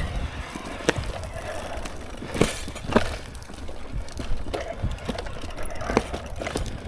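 Mountain bike riding over a wet trail of rocks and roots: tyre noise and a low rumble, with a few sharp knocks and rattles from the bike as it hits obstacles, the loudest two about halfway through.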